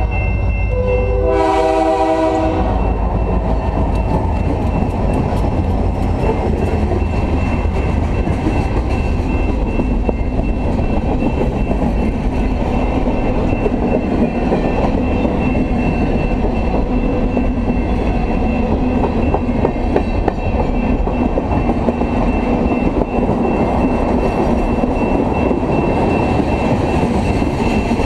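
The chord horn of CP 4653, an EMD GP38-2 diesel locomotive, sounds a blast about a second in. The locomotive then passes, and a freight train of covered hoppers and tank cars rolls by with a steady rumble and clickety-clack of wheels over the rail joints.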